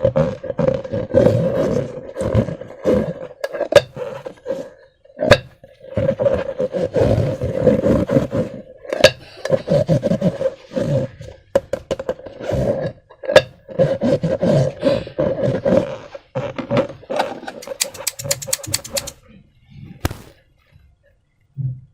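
Slime being squeezed and worked by hand, giving loud, irregular squelching and crackling pulses. Near the end comes a quick run of sharp snapping clicks, then a single click.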